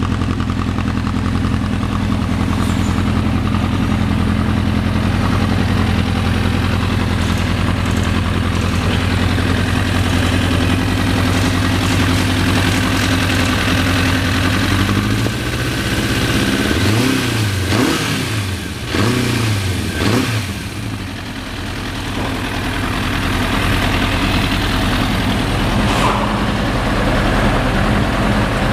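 1993 Suzuki GSX-R750's inline-four engine idling steadily, then revved in a few quick blips about halfway through before settling back to idle.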